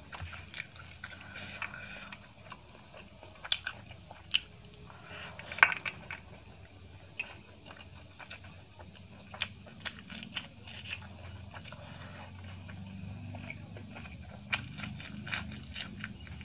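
Close-up ASMR eating sounds: a person chewing and biting jeera rice and paneer eaten by hand, with many short crunchy clicks and mouth sounds, the loudest about five and a half seconds in. Fingers gather rice on a steel plate between bites.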